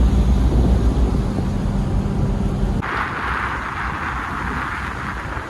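A tug boat's diesel engine running with a deep, steady drone. About three seconds in it cuts off abruptly and gives way to a steady rushing hiss of wind and water.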